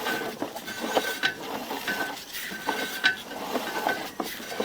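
Drain inspection camera rig being pushed along a sewer pipe: irregular clicks and knocks from the push-rod reel and camera head, with a short high tone coming and going several times.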